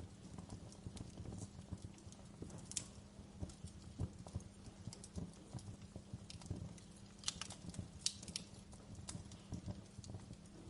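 Wood fire crackling: a steady stream of irregular small pops and snaps over a low rumble, with a few sharper snaps near the middle and about three-quarters through.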